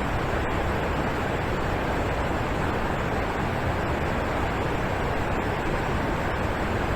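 Alpine waterfall, water falling and splashing with a steady, unbroken rush.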